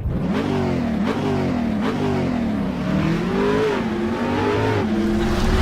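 Mazda MX-5 ND engine through a RoadsterSport Race aftermarket exhaust, revved in several short blips, its pitch rising and falling. A longer swell follows, then it holds a steadier note near the end.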